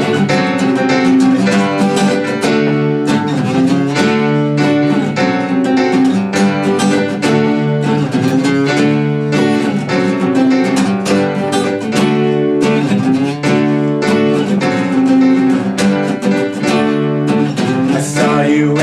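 Acoustic guitar strumming chords in a steady rhythm: the instrumental intro of a song, before the singing comes in.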